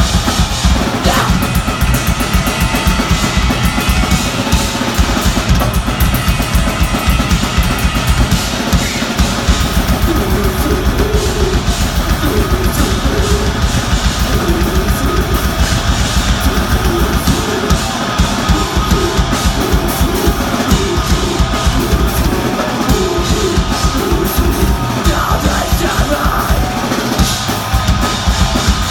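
Deathgrind band playing live and loud: heavily distorted guitars over very fast, dense drumming, continuous with no pause.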